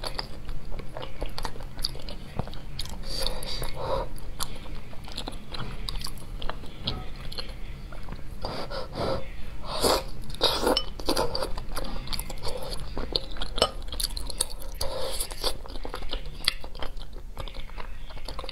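Close-miked chewing and biting of sticky braised pork: wet smacking mouth sounds with many short clicks, loudest about ten seconds in.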